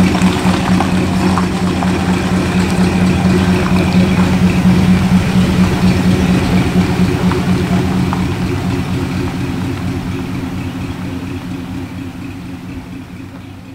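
Buick GS400's 400 cubic-inch V8 burbling at low revs as the car rolls slowly away, its pulsing exhaust note fading gradually over the second half.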